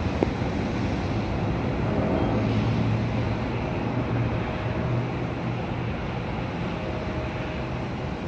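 Jet airliner noise at an airport: a steady rumble with a low hum that swells a couple of seconds in and eases slightly toward the end.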